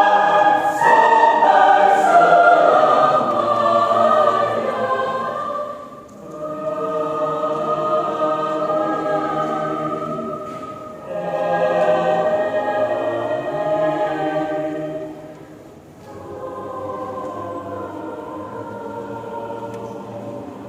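Choir singing slow, sustained phrases in several parts, with short breaths between phrases about 6, 11 and 16 seconds in; the final phrase is softer.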